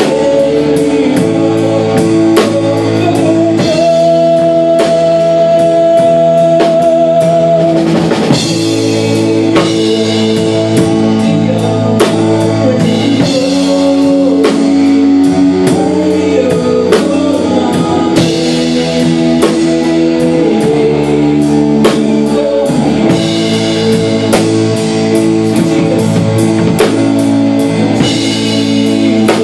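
Rock-style worship music, instrumental between sung lines: a drum kit keeps a steady beat under guitars and sustained chords, with one held high note for a few seconds near the start.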